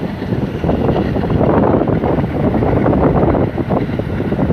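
Wind buffeting the microphone over the steady rumble of a passenger train running along the track, heard from an open coach door.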